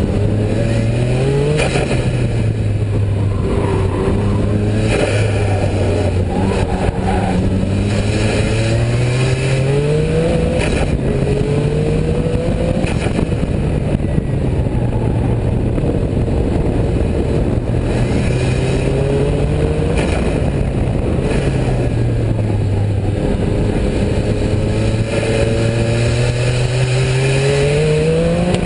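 Noble sports car's twin-turbocharged Ford V6 heard from inside the car on a hot lap, its pitch climbing as it accelerates and dropping back again for shifts and corners, several times over, with steady wind and road noise.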